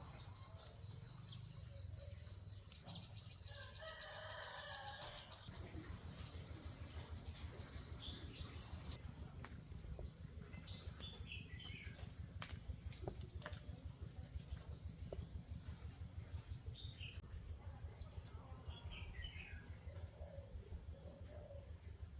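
Faint outdoor ambience: a steady high insect drone, with birds calling in short descending runs of notes every few seconds and a low rumble underneath.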